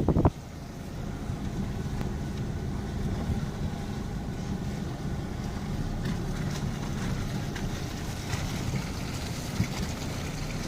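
A steady low engine drone, as of a vehicle running at an even speed, with a light hiss above it.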